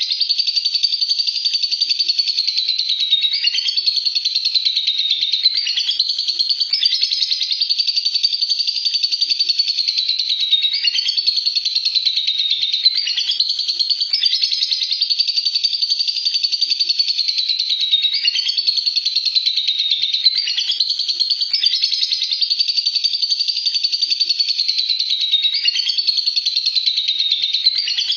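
Lovebird singing a long, unbroken 'ngekek' chattering trill. It is a dense, high-pitched rapid chatter that runs without a pause, dipping briefly in pitch every couple of seconds.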